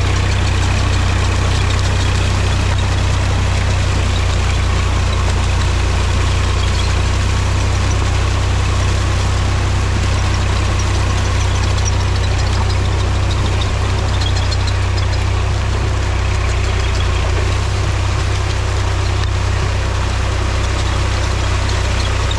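Mahindra tractor's diesel engine running steadily, with a deep, even drone and no change in speed.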